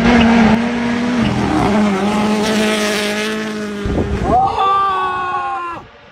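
Rally car engine running hard at high revs, its pitch holding fairly steady, then climbing sharply about four seconds in before cutting off suddenly near the end.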